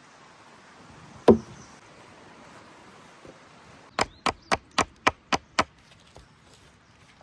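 Wood being chopped: one heavy chop about a second in, then a quick run of seven sharp knocks on wood near the middle.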